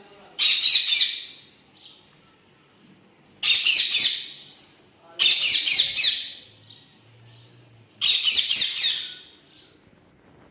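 Pet parrots squawking: four loud, shrill calls of about a second each, spaced a few seconds apart with quiet between.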